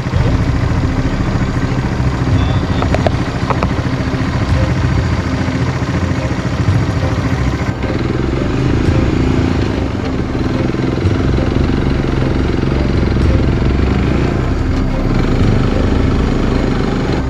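A motorbike engine runs steadily as it is ridden, its pitch rising a little about eight seconds in.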